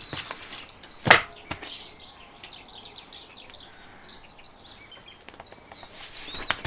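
Small birds chirping on and off in the background, with one sharp knock about a second in.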